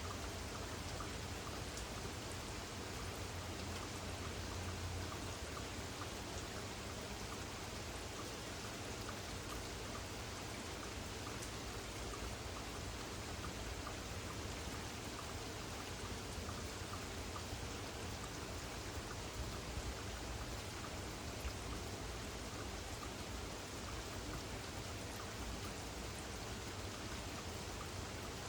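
Steady rain falling during a thunderstorm, an even hiss with scattered drops ticking. A low rumble sits under it for the first few seconds.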